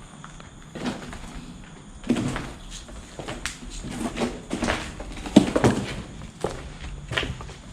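A series of irregular knocks and thuds, the loudest about five and a half seconds in.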